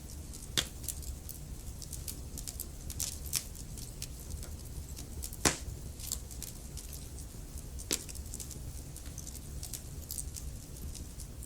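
Wood fire crackling: irregular sharp pops and snaps over a low steady rumble, with the loudest pop about halfway through.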